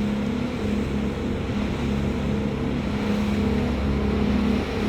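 Motorboat under way at speed: a steady outboard engine drone over a constant rush of water and wind.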